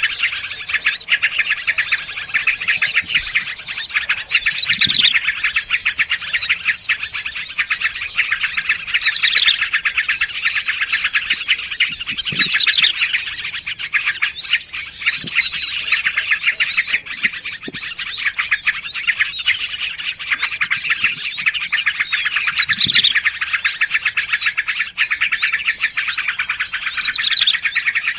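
A dense, unbroken chatter of several small songbirds calling over one another: rapid repeated chirps and trills layered without a pause, the kind of mixed lure recording that combines bulbul, tailorbird-type and other small-bird calls.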